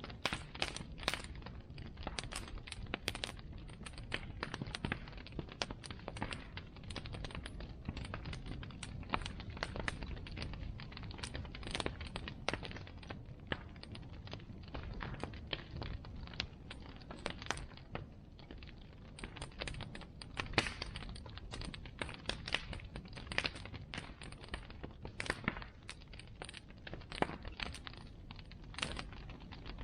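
Bonfire of burning wood crackling: a constant, irregular stream of sharp pops and snaps over a steady low rush of the flames.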